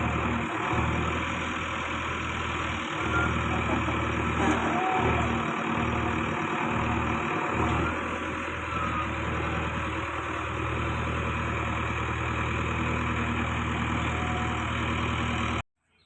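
Tractor engine running steadily at a constant speed, then cutting off abruptly near the end.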